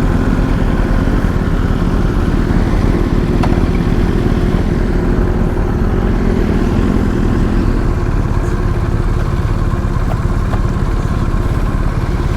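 Motorcycle engine running steadily under a heavy low rumble, with its pitch holding level.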